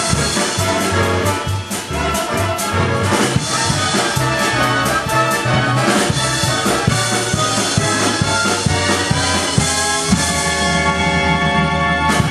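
Brass-led orchestral show music with a steady beat, ending on a long held chord that cuts off sharply.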